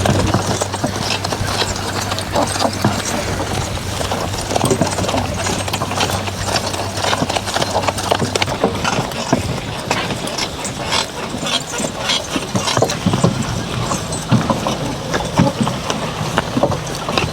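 Draft horses' hooves clopping as they walk, with irregular knocks and clatter. A skid steer's engine hums steadily underneath for the first half, then stops.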